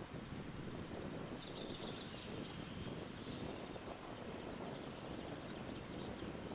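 Steady wind rumble with small songbirds chirping; a quick trill of rapidly repeated high notes comes about a second and a half in, with scattered chirps after.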